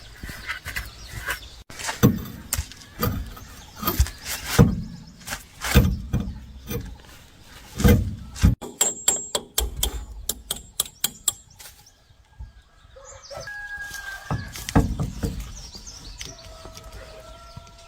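A series of sharp knocks and clicks, uneven in spacing, then a quick run of ticks. In the last few seconds a few short, steady-pitched calls.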